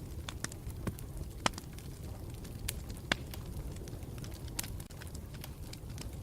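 Campfire burning with a steady low rumble and irregular sharp crackles and pops, the loudest about a second and a half in and again about three seconds in.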